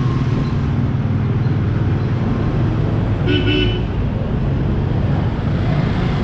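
Motorcycle engine running steadily at low speed amid street traffic, with a short horn toot about three seconds in.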